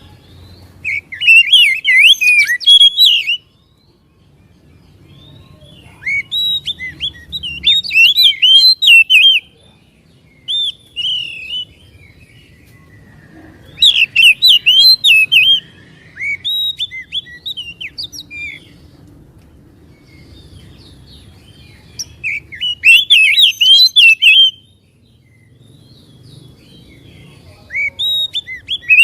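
Oriental magpie-robin (kacer) song: loud bursts of fast, varied whistled phrases lasting two to three seconds each. There are about five bursts, with pauses of several seconds between them.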